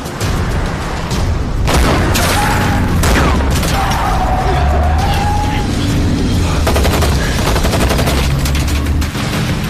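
Action film sound effects: loud gunfire and bangs over a low, droning score. The noise starts abruptly about two seconds in, and there is a rapid burst of shots near the end.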